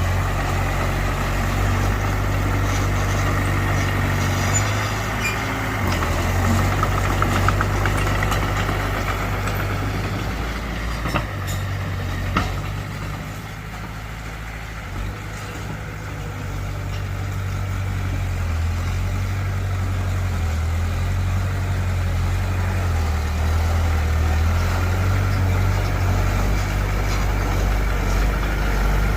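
Heavy diesel earthmoving machinery running steadily with a deep engine hum. A few sharp metallic clanks come about eleven and twelve seconds in. The engine then eases off for a few seconds before building up again.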